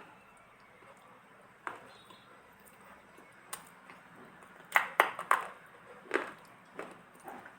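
Multani mitti (fuller's earth clay) being bitten and crunched close to the microphone: scattered sharp crunches, with a quick run of several about five seconds in.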